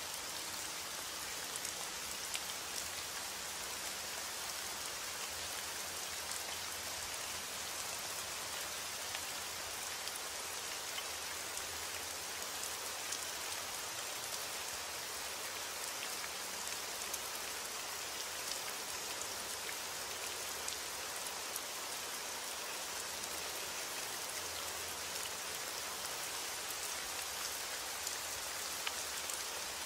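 Steady, even rain, with scattered individual drops heard as light ticks.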